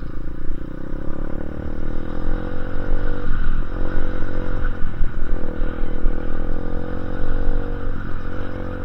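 Dirt bike engine under way, its revs climbing steadily, dropping briefly about three seconds in, again around five seconds and once more near the end, then climbing again.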